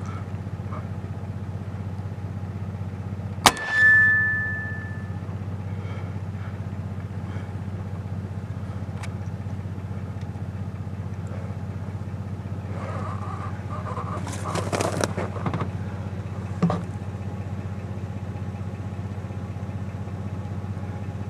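Truck engine idling steadily, with one sharp crack of a TD257 precharged air rifle shot about three and a half seconds in, followed by a brief ringing tone. Some rustling and a small click come later.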